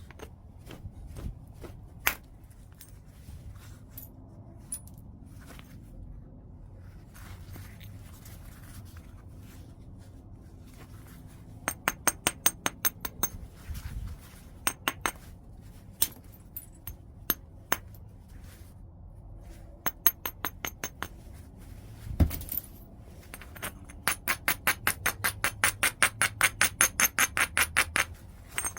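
Stone tool knapping on white chert. It starts with scattered faint clicks. Nearly halfway in come runs of quick, sharp taps on the stone, then a single heavier knock, and finally a dense run of light taps at about seven a second.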